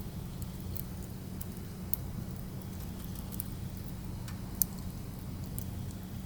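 Burning firewood crackling with scattered sharp pops, the loudest a little past the middle, over a steady low rumble.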